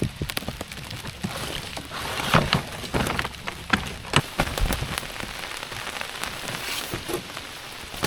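Heavy rain falling as a steady hiss, with many irregular sharp drops striking a nearby surface, most thickly in the middle.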